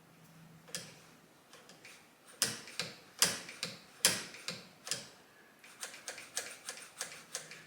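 Throttle linkage of a Kawasaki KZ1000 carburettor bank worked by hand, giving about a dozen sharp irregular clicks that come faster near the end. The linkage is being cycled to test the accelerator pump, which gives no visible squirt.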